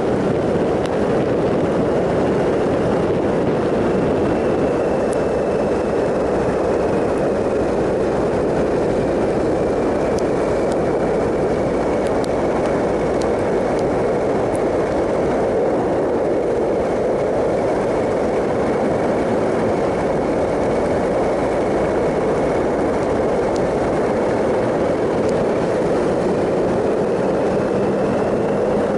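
2007 Triumph Sprint ST 1050's three-cylinder engine running at a steady cruise under a heavy rush of wind noise. A faint high whine sinks slowly in pitch through the middle and climbs again near the end.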